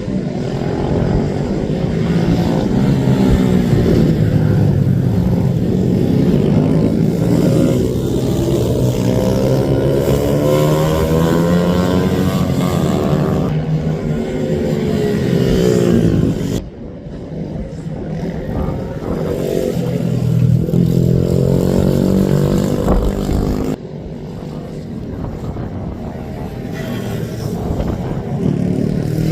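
Several racing minibike engines running hard together, their pitch rising and falling as they rev and pass. The sound drops suddenly a little past halfway and again about three quarters of the way through.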